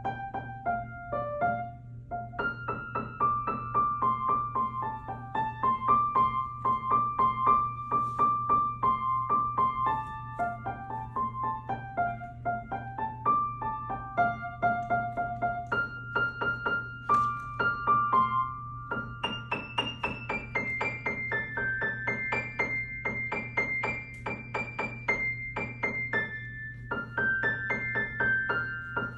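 A child playing a simple melody on the piano, mostly single notes at a steady, unhurried pace, with a faint steady low hum underneath.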